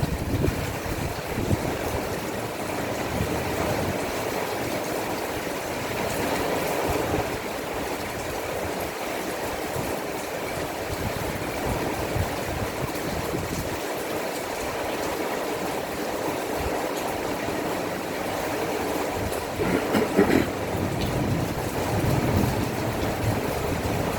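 Heavy storm rain falling steadily, a continuous wash of water noise, with a brief louder swell about twenty seconds in.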